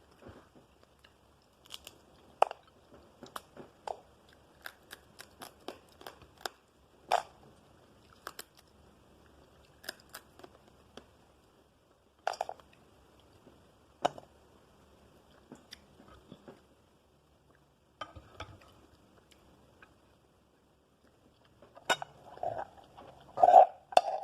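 Crab shell cracking under the teeth, with chewing: irregular sharp crunches and clicks, some in quick clusters and others a second or more apart, growing denser and louder near the end.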